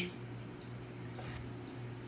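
Quiet room tone with a steady low electrical hum, and a faint brief rustle or breath a little over a second in.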